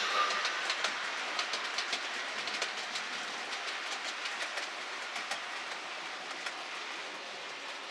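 Model train running on the layout's track, its wheels clicking over the rail joints above a steady rumbling rush, gradually getting quieter.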